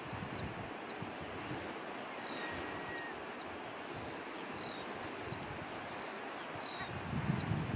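A small bird repeating a short phrase of high chirps and slurred notes about every second and a half, with a longer level whistle about two and a half seconds in, over a steady rush of wind and surf. Near the end, wind starts buffeting the microphone.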